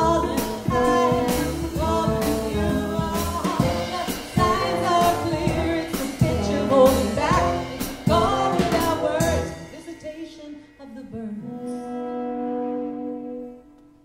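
Live band playing the last bars of a song, with regular drum hits, then stopping on a few held notes that ring and die away near the end.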